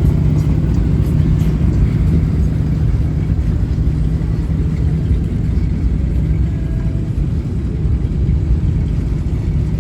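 Low, steady rumble of a vehicle engine running, with a steady hum that fades out about six seconds in.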